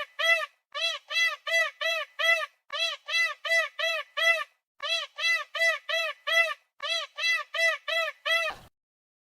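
A fast series of identical high chirps, each rising and falling in pitch, in groups of four or five with short pauses between groups, stopping abruptly near the end.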